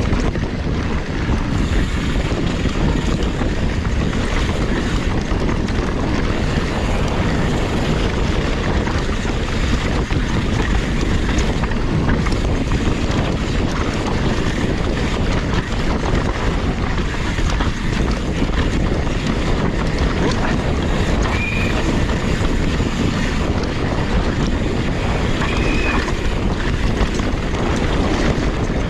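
Downhill mountain bike ridden fast over rough dirt trail: steady wind rush on the microphone over the constant rattle and knocking of tyres, chain and frame. Two brief high squeaks near the end.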